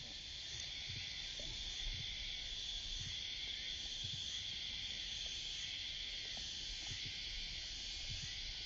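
Summer cicada chorus: a continuous, even, shrill hiss with no pauses.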